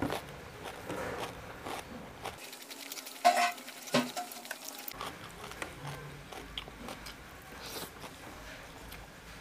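Close-miked eating with bare hands: chewing after a bite of raw cucumber, with scattered mouth clicks and light taps of fingers and food on the tray. The loudest sounds come about three to four seconds in.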